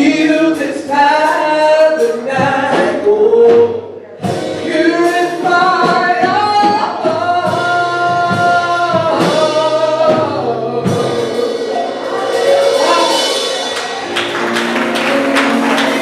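Gospel singing with instrumental accompaniment, with a short break about four seconds in.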